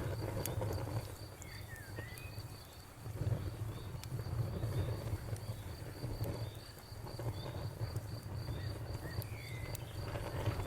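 Wood fire crackling, with scattered sharp pops over a low rumble that swells and dips. A steady high-pitched chirping repeats about five times a second in the background.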